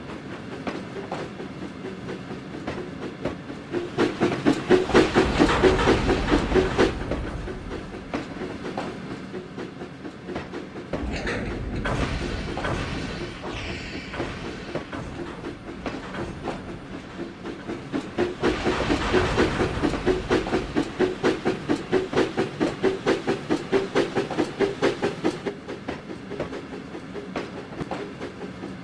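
Train running along the track with an even rhythmic beat, about two pulses a second at its clearest. It grows louder twice, for a few seconds each time.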